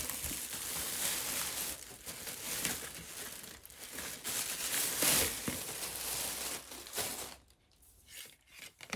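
Packaging crinkling and rustling as it is handled and pulled open, with several louder surges, stopping about seven seconds in.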